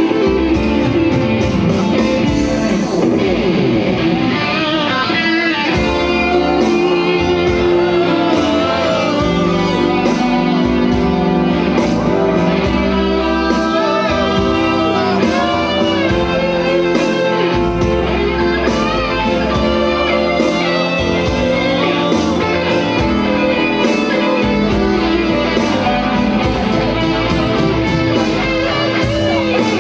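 Instrumental break of a slow blues song: guitar playing chords under a melody line of wavering, bending notes.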